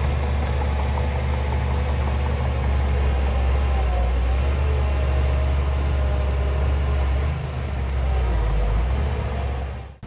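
Heavy diesel engine of earthmoving machinery running steadily, a deep drone with faint wavering higher tones over it; the drone dips briefly about three-quarters of the way in and cuts off abruptly at the end.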